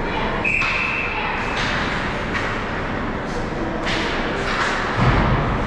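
Ice hockey rink game sounds: a short steady whistle tone about half a second in, then scattered sharp knocks and a heavy low thud near the end, over the hall's steady background noise.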